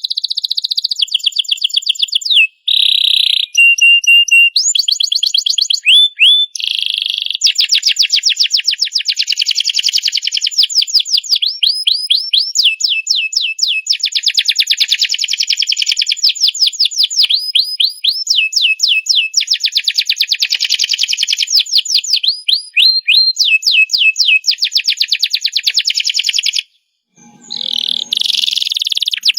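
Domestic canary singing a long, loud, nearly unbroken song of rapid repeated trills and quick sweeping notes, all high-pitched. The song breaks off briefly near the end, then resumes.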